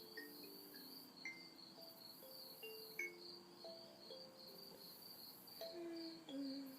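Night insects trilling steadily, a fast pulsing chirr, with a higher cicada-like buzz that swells and drops away every second or two. Under them runs a soft, low melody of held notes that step up and down.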